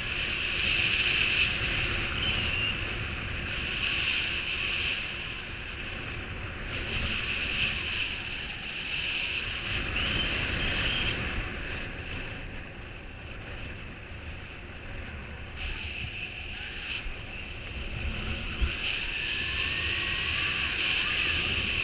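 Wind rushing over the microphone during flight under a Skyman Blizzard mini paraglider wing in strong wind, surging and easing every few seconds.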